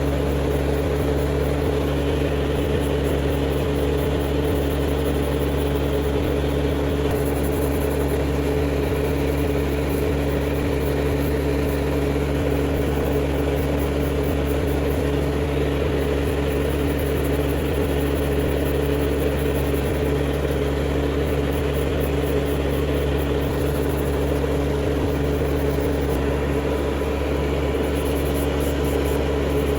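A small electric motor running steadily with an unchanging hum.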